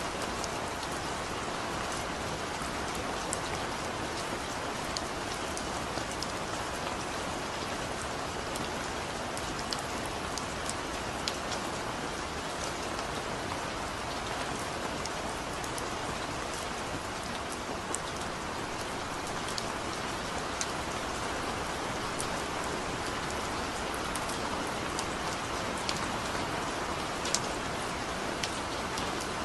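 Heavy rain falling steadily, with scattered sharp drips and drop hits ticking over the constant hiss.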